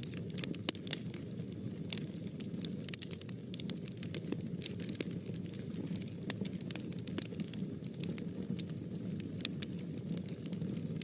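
Fire burning in a fireplace: a steady low rumble of flames with irregular sharp crackles and pops, several a second.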